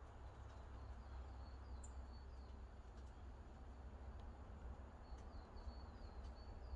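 A faint, steady low rumble with two runs of quick, short, high chirps from a small bird, a few seconds apart.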